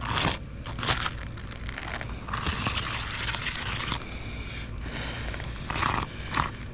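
Scratching and crunching on a granule-surfaced asphalt roof shingle as it is handled and marked: a few short scrapes, then a longer scratchy stretch in the middle.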